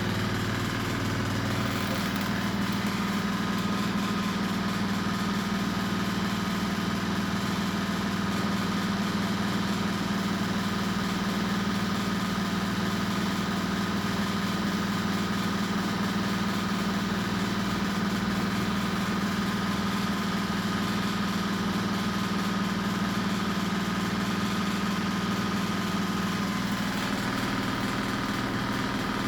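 Washing machine running steadily, its motor giving a constant hum with a fainter higher whine over the noise of the drum.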